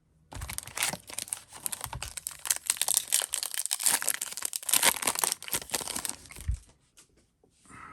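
An Upper Deck MVP hockey card pack wrapper being torn open and crinkled, with a dense run of crackling that stops about six and a half seconds in.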